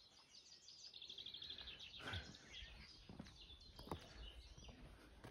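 Faint songbirds chirping, with a quick run of repeated high notes about a second in, and a few soft knocks underneath.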